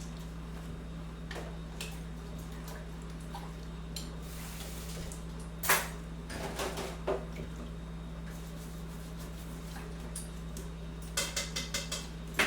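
Crockery and cutlery clinking and knocking in a kitchen, with a louder knock about halfway through and a quick run of clinks near the end, over a steady low hum.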